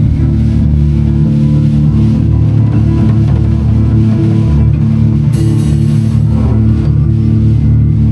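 A live band jamming: electric guitar, bass guitar and drum kit playing together, loud and steady, with a bright cymbal crash about five seconds in.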